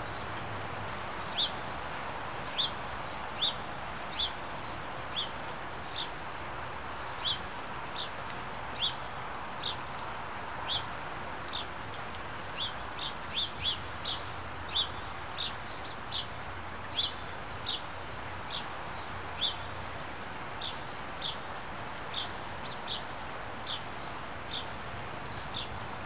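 A small bird giving single short chirps, about one a second and bunched closer together around the middle, over the steady hiss of rain falling on trees and lawn.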